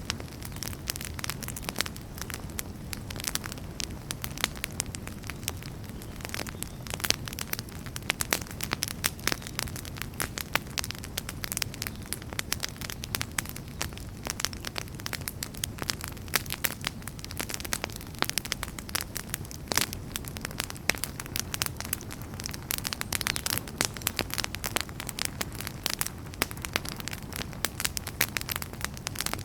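Wood fire burning in a fireplace: logs crackling with many quick, irregular pops and snaps over a steady low rumble of the flames.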